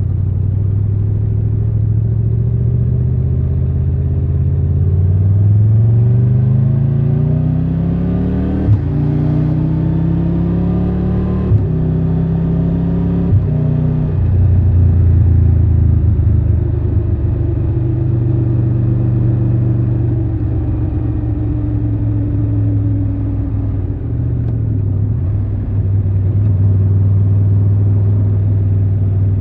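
Triumph Tiger 1200's three-cylinder engine under way, pulling up through the gears. Its pitch climbs and breaks sharply at each upshift, three times in quick succession, then it settles to a steady cruise, easing off and picking up again near the end.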